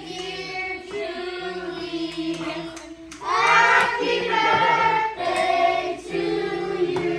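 Several voices, children among them, singing together, with a short pause about three seconds in.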